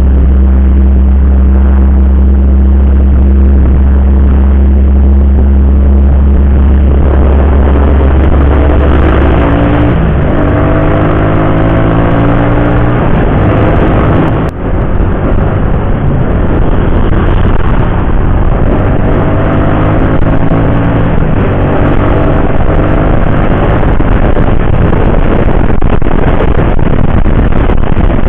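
Motorcycle engine under way at a steady pace. It then speeds up twice, its pitch rising in two runs with a short break between them, over continuous road noise.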